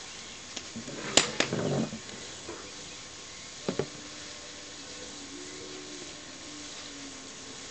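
Food sizzling steadily in a Hungarian wok over a wood fire, with a few sharp cracks about a second in and a pair more near four seconds.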